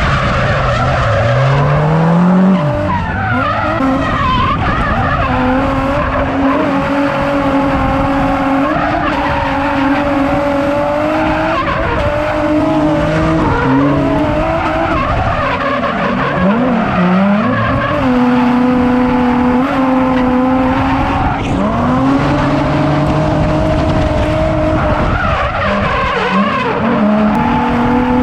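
A drift car's engine revving up and down and held at high revs for stretches of a few seconds, with its tyres skidding as it slides.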